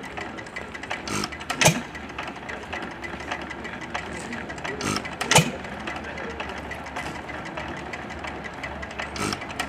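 Antique hit-and-miss gas engine firing about once every four seconds, each power stroke a sharp exhaust bang, coasting between firings.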